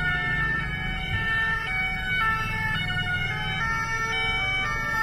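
Several two-tone emergency vehicle sirens sounding at once and out of step, their alternating high and low notes overlapping, over a steady low engine hum.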